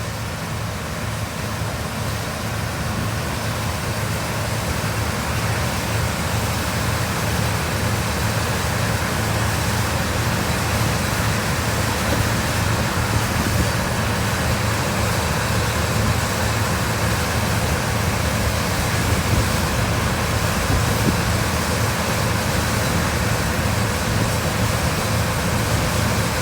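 An engine running steadily at constant speed, with a low hum and a wash of noise that stays level throughout.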